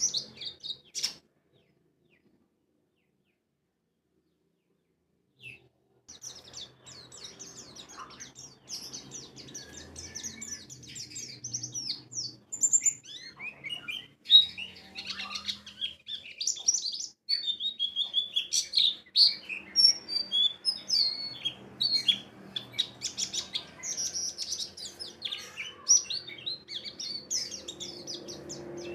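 White-eye (pleci) song: rapid, high chirping and twittering. It breaks off for about four seconds just after the start, then comes back and runs on busy and unbroken.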